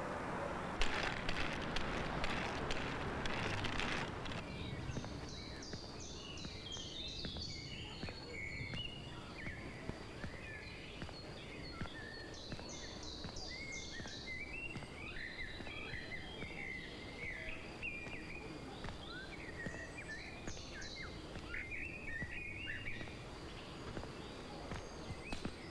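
Small birds singing, many short chirps and trills over a steady outdoor background noise, after a brief louder rush of noise in the first few seconds.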